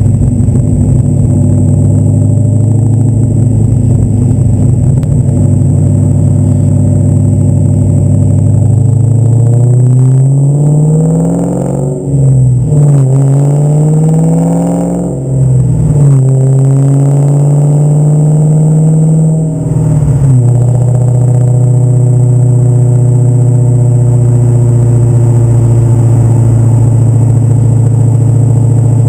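1995 Mustang Cobra's supercharged 5.0 V8 through longtube headers, an X-pipe and Borla Stinger exhaust, idling steadily, then revved three times from about eight seconds in. Each rev climbs over a couple of seconds and drops back, before the engine settles back to idle about twenty seconds in.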